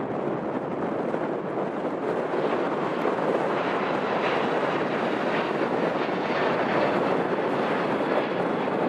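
Jet aircraft engine noise, a steady rushing sound, mixed with wind buffeting the microphone.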